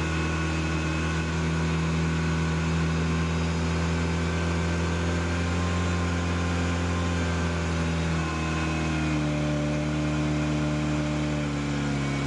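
Car engine idling steadily, its exhaust ducted into a flow-meter tube; the idle settles slightly lower about nine seconds in.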